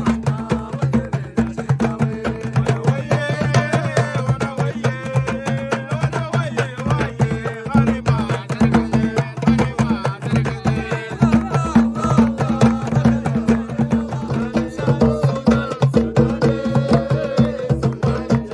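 Berber men singing a traditional folk song to a fast hand-drum beat, over a steady low hum.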